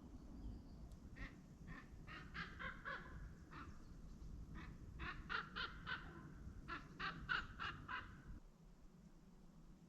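An unidentified animal calling in three bouts of short, harsh calls, several to a second, faint.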